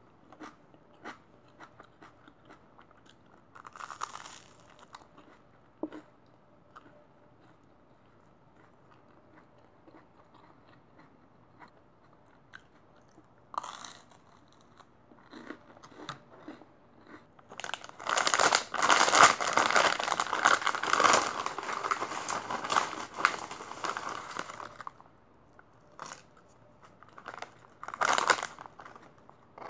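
Close chewing and crunching of toast, with a few louder bites. About halfway through come several seconds of loud crinkling and rustling from a foil potato-chip bag being opened and chips poured into a bowl, then a shorter crinkle of the bag near the end.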